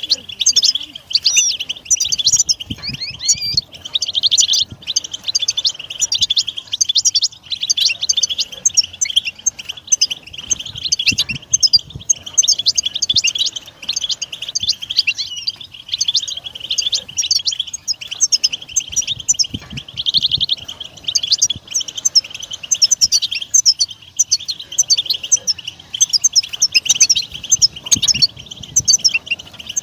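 European goldfinch singing: a continuous stream of quick, high twittering chirps and trills with hardly a pause.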